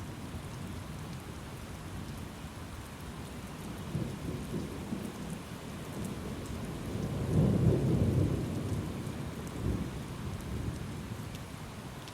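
Thunderstorm: steady rain with rolling thunder, the rumble building about four seconds in, loudest around the middle and dying away near the end.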